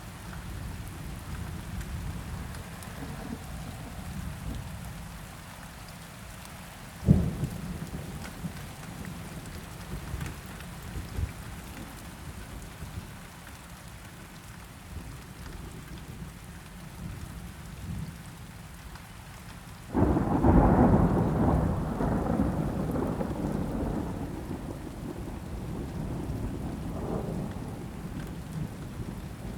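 Steady rain with thunder: a single sharp crack about seven seconds in, then a sudden loud roll of thunder about two-thirds of the way through that slowly rumbles away.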